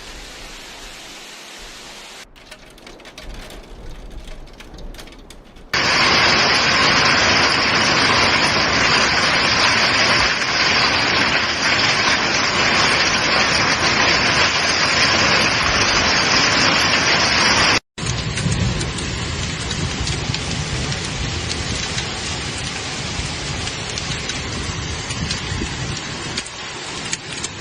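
Heavy downpour pelting down in a storm. It is faint at first and turns loud and dense about six seconds in. After a brief cut it goes on a little quieter and deeper.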